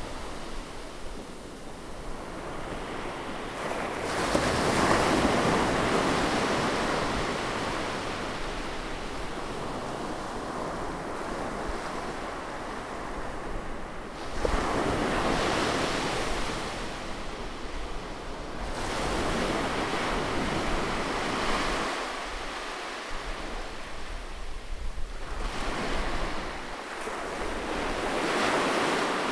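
Gentle sea waves breaking on a beach and washing back, the surf swelling to a louder hiss four times, a few seconds to ten seconds apart, over a constant wash of water.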